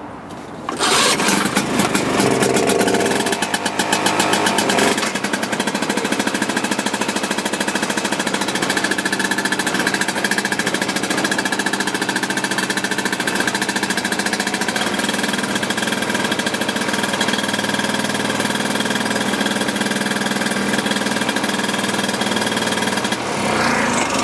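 Vintage Ski-Doo Elan snowmobile's single-cylinder two-stroke engine running. About a second in it gets much louder and is revved up and down for a few seconds, then settles into a steady run whose idle the owner says needs adjusting.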